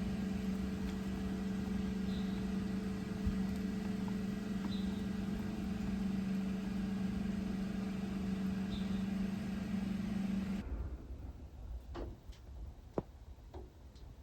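A steady machine hum with a low tone that cuts off suddenly about ten and a half seconds in, followed by a few faint clicks.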